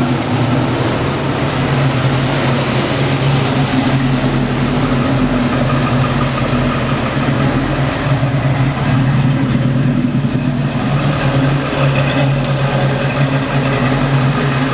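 1980 Chevrolet Camaro Z28's V8 engine running steadily, a low, even hum with no revving.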